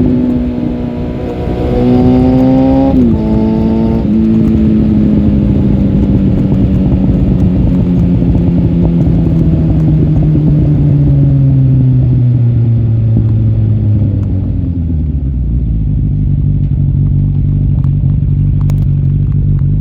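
Suzuki GSF 650 Bandit inline-four, running through a Dominator Oval slip-on exhaust with the dB-killer removed, pulling on a ride. The engine note rises, then drops sharply about three seconds in and again a second later as the gears change. It then falls slowly for about ten seconds as the bike slows and settles into a low, steady run.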